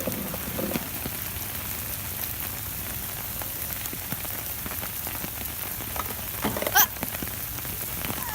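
Steady rain falling on surfaces, with scattered drips. About six and a half seconds in, a brief high-pitched sound rises over it.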